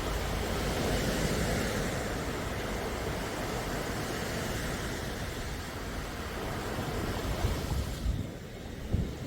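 Sea waves on a calm shore, a steady rushing wash that swells in the first seconds and eases off near the end, with wind rumbling on the microphone.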